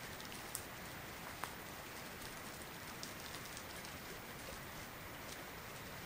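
Light rain: a steady hiss with a few single drops ticking sharply close by, landing on the tarp overhead.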